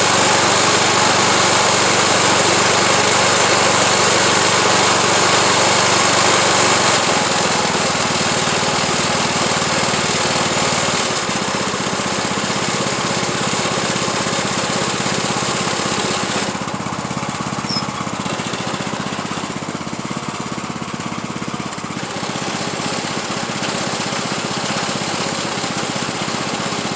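Craftsman YT3000 riding lawn tractor's engine running steadily under way, its note shifting about seven seconds in and again about eleven seconds in.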